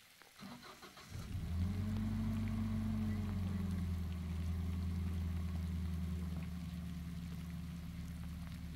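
A vehicle engine starting: it catches about a second in, runs a little faster for a couple of seconds, then settles into a steady low idle.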